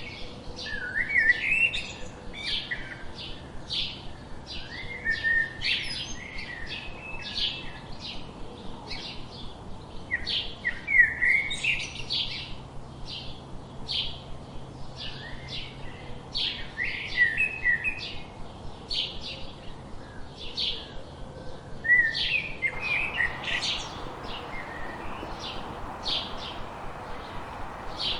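Small birds chirping and twittering: a quick run of short, high calls, about two a second, mixed with lower sliding warbled notes. A steady hiss comes in near the end.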